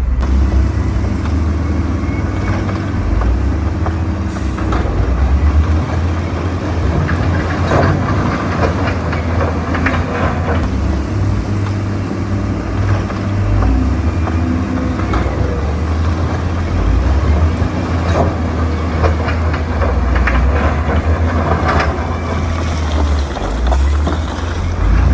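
Diesel engine of a heavy earthmoving machine running steadily with a deep rumble, with scattered metallic clanks and knocks throughout.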